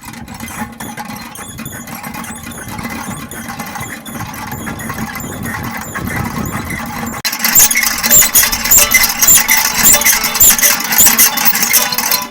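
A centrifugal honey extractor being spun with comb frames inside: a low running rumble with a high squeak repeating about twice a second, once per turn. It gets much louder about seven seconds in as the spinning picks up.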